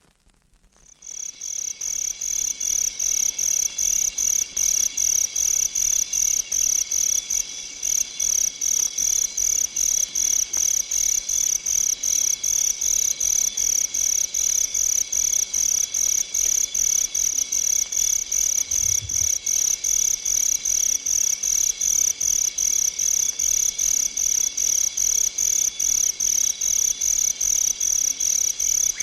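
A high-pitched, evenly pulsing chirp, like a cricket, starting about a second in and repeating steadily at about two to three chirps a second.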